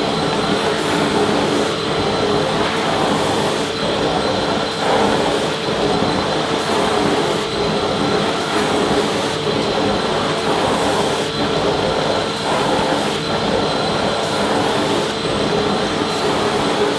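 Vacuum cleaner motor running steadily: a dense, even rush of air noise with a steady hum and a high whine over it.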